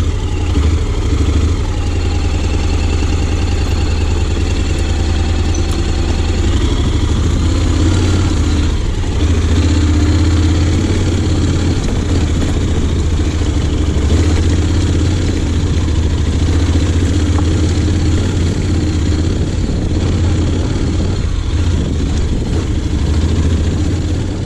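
Honda X-ADV 750's parallel-twin engine running steadily at low revs.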